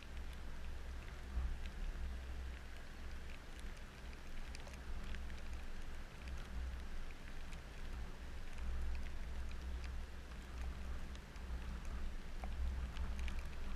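Steady rain falling, with many small drops ticking close to the microphone, over a low rumble.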